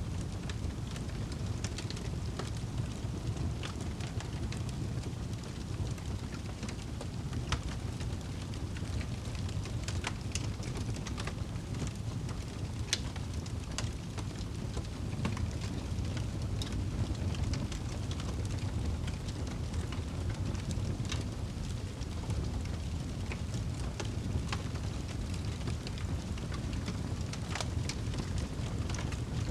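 Fireplace fire crackling, with scattered sharp pops and snaps at irregular intervals over a steady low rumble.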